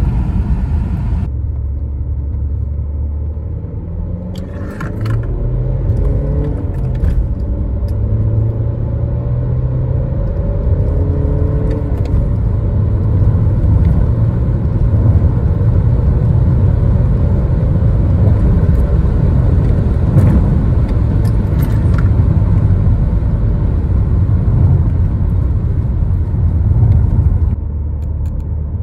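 Cabin sound of a BMW E91 320d's M47 2.0-litre four-cylinder turbodiesel pulling hard under acceleration, its note climbing steadily with the revs and getting louder. Near the end the sound changes abruptly to another pull at lower speed.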